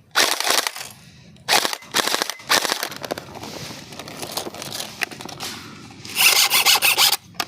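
Airsoft rifle firing full-auto bursts: a short burst at the start, two quick bursts about a second apart, and a longer burst of about a second near the end.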